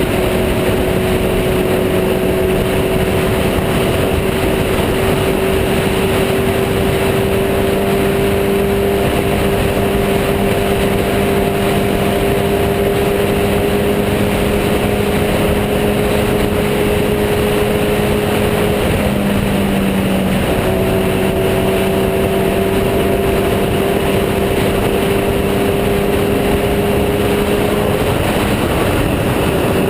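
Motorcycle engine at speed, its drone rising slowly in pitch under a heavy rush of wind noise. The engine note breaks off briefly about two-thirds of the way through and returns slightly lower, and does so again near the end.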